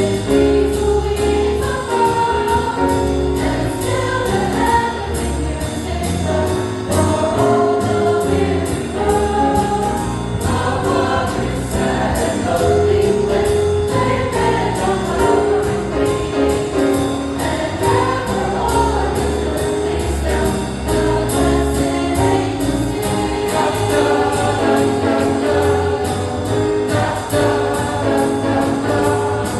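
Church choir singing a jazz-style Christmas song with instrumental accompaniment and a steady swung beat.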